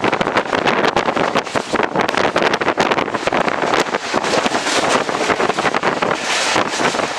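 A passenger train in motion heard from on board: a steady, loud rush of wind and running noise, thick with rapid irregular clattering and rattling from the wheels and coach.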